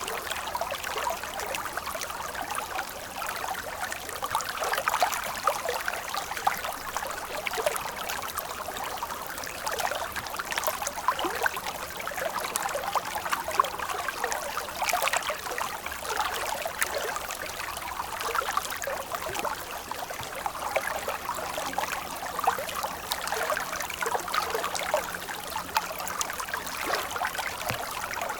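Small stream of water flowing and trickling: a steady babble of many small splashes, with no deep rumble.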